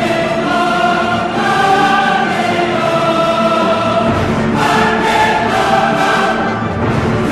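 Background music: a choir singing long held notes in a solemn, church-like style.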